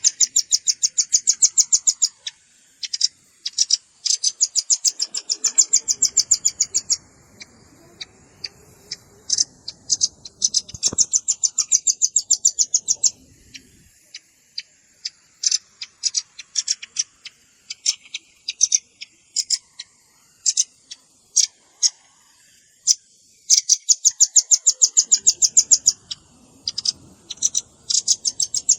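Velvet-fronted nuthatch calling in a lure recording: fast, high-pitched trills of dry ticks lasting one to three seconds, broken up by scattered single sharp chips.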